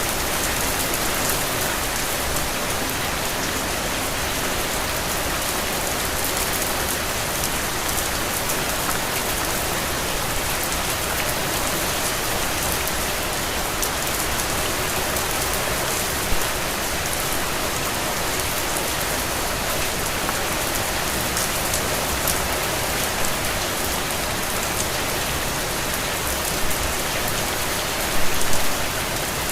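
Steady rain falling, a dense even patter of drops, with a few brief louder taps: one about halfway through and a short cluster near the end.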